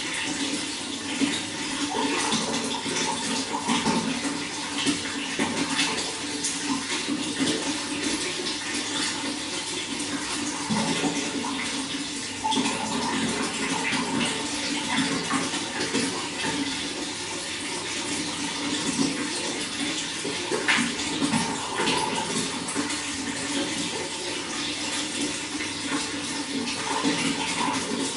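Water running and splashing steadily, a continuous gurgling flow with small fluctuating splashes.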